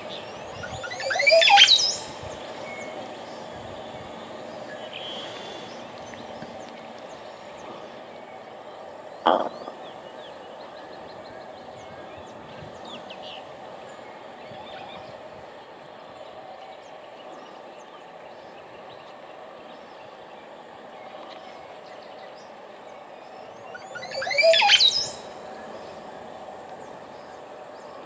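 Birds calling in a tree full of weaver nests: two loud sweeping calls that rise and fall, one about a second in and one near the end, over faint scattered chirps. A single sharp knock sounds about a third of the way through.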